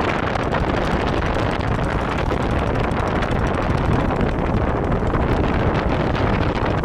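Steady wind rushing over the microphone, with a low rumble underneath, as from a moving vehicle.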